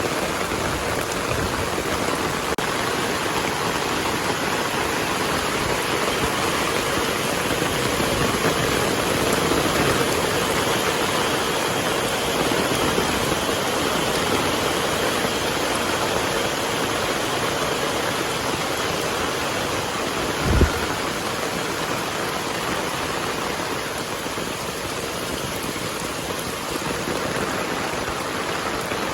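Heavy rain falling steadily, a dense even hiss. A single brief low thump about two-thirds of the way through.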